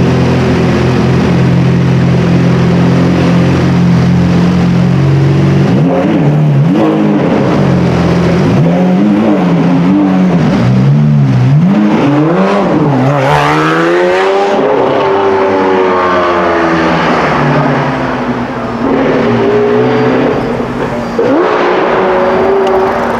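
A high-performance car engine idles steadily for about five seconds, then is revved in a string of quick blips that climb higher, the highest about halfway through. The revs then fall away, with a few lighter revs near the end.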